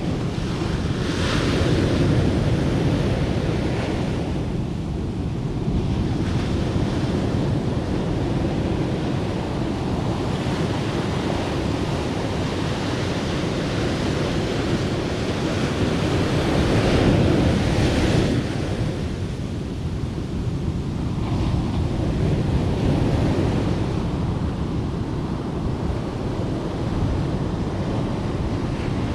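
Sea surf washing steadily onto a beach, swelling into louder breaking waves about two seconds in and again around seventeen seconds in.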